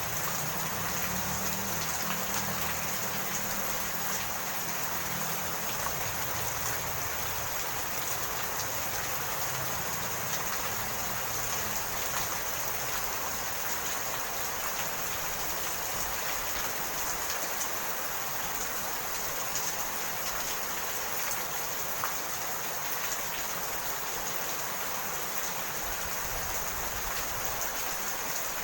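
Steady rain falling, with a few separate drops pattering now and then. A low rumble underneath fades out over the first few seconds.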